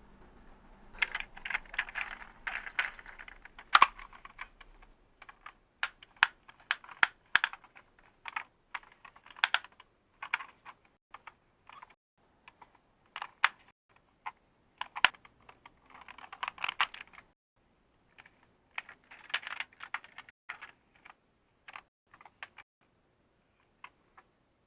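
Hard plastic toy pieces being handled, with irregular clicks and clatters and a few denser bursts of rattling.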